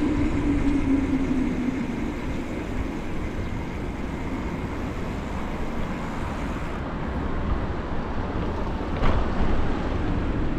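Wind rumbling on a cyclist's camera microphone while riding on a road, with the hum of motor traffic; a steady engine-like hum fades out about two seconds in, and a short louder burst comes about nine seconds in.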